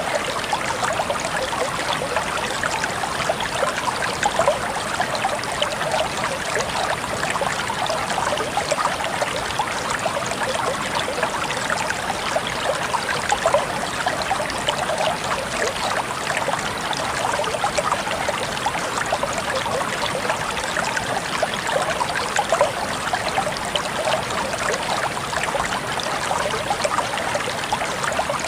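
Water flowing and trickling over stones in a stream: a steady babbling with constant small splashes.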